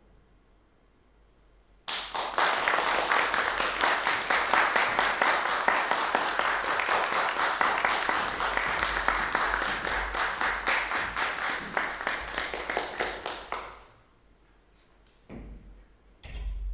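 Audience applauding for about twelve seconds, starting suddenly after a short silence and dying away, followed by a couple of dull thuds near the end.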